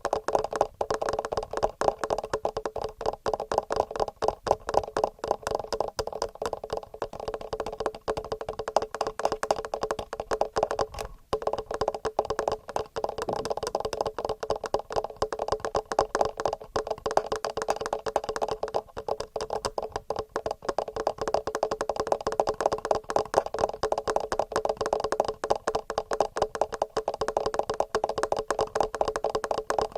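Fast, regular fingernail tapping on the microphones of a TASCAM portable recorder, many light clicks a second. It breaks off briefly about eleven seconds in.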